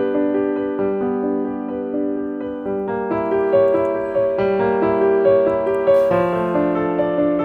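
Background piano music: gentle sustained notes and chords, changing every second or two.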